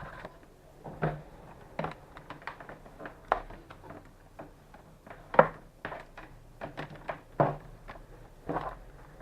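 Scattered knocks and clicks of a laptop power adapter and its cable being handled and plugged in, about six separate hits, the loudest about five and a half seconds in.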